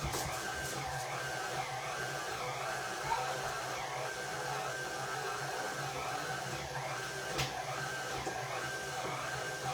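Electric stand mixer running steadily with a dough hook, kneading bread dough. The motor hum wavers in a regular cycle as the hook turns, with a single sharp click about seven seconds in.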